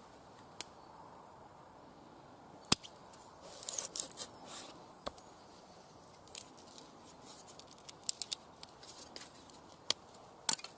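Knife blade, a Cold Steel SRK, carving feather sticks from a piece of wood: short scraping strokes about four seconds in, with sharp clicks scattered before and after.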